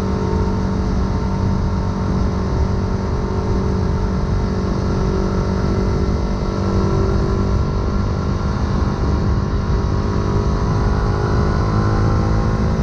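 Yamaha YZF-R125's 125 cc single-cylinder four-stroke engine through an aftermarket full exhaust, pulling steadily under way. The engine note climbs slowly over the last few seconds.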